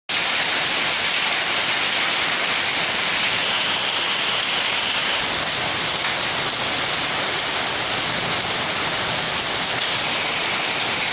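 Heavy rain pouring, a loud steady hiss.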